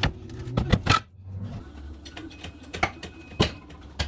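Irregular knocks and clicks, a few sharp strikes spaced unevenly, over a low steady hum.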